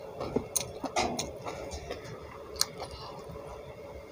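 A person chewing a mouthful of food close to the microphone, with a few scattered sharp mouth clicks and smacks, most of them in the first second and a half and one more near the three-second mark.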